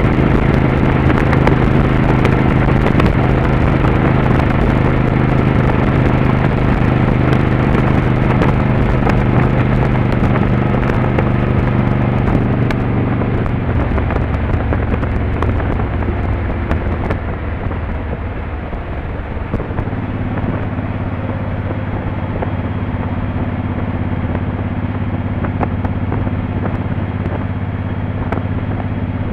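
Motorcycle engine running steadily at road speed with wind rushing over the microphone. About halfway through, the engine note drops lower and the wind noise fades as the bike slows, then the engine runs on evenly at the lower pitch.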